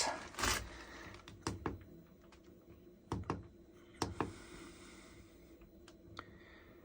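Scattered light clicks and taps, several in quick pairs, over a faint steady hum from the Chinese diesel heater, which is running its fan-driven cool-down cycle after being switched off.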